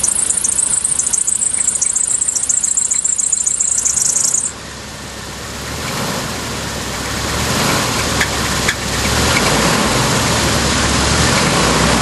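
1988 Chevrolet Suburban's 350 TBI V8 running just after start-up, with a loud high-pitched squeal over it that cuts off suddenly about four and a half seconds in. The engine then runs on more quietly, slowly building, with a couple of faint clicks. The owner says the engine has a knock from having been run hot.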